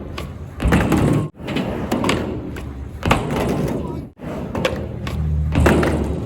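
Skateboard wheels rumbling over a wooden mini ramp, with sharp clacks and thuds of the board hitting the deck and coping. The sound breaks off abruptly twice, as short clips are cut together.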